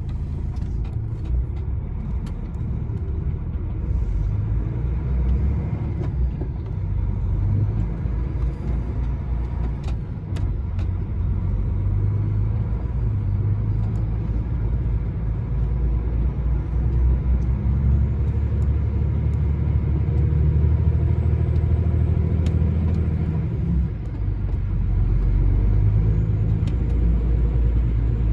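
Lorry engine and road rumble while driving, a steady low drone that rises and falls slightly, with a brief dip in level near the end.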